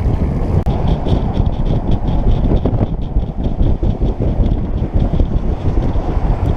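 Wind buffeting the microphone of a camera riding along on a moving bicycle: a loud, steady, rumbling rush of noise.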